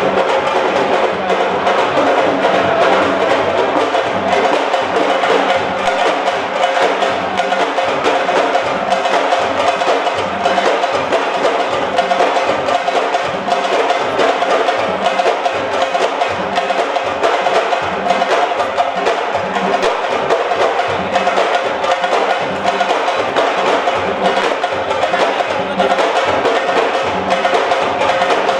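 Fast, continuous drumming, a dense run of quick strokes that keeps on without a break.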